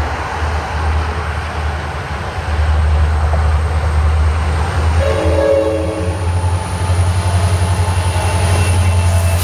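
Diesel freight locomotives running with a steady, pulsing low engine drone, and a short horn note about five seconds in.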